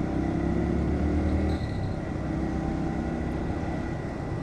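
Bajaj Pulsar NS125's single-cylinder engine running under way as the bike is ridden through traffic; the engine note eases a little about one and a half seconds in.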